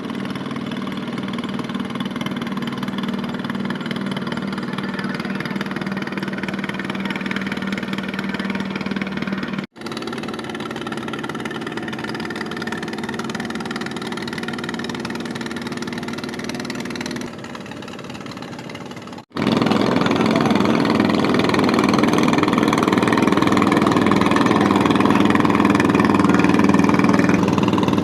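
Inboard engines of traditional fishing boats running steadily as the boats pass. The sound breaks off abruptly twice, and it is louder after the second break.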